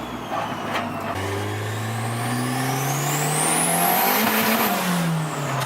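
Car engine under hard acceleration. The pitch drops about a second in, as at a gear change, then climbs steadily with a high whine rising with it, and falls back as the driver lifts off near the end.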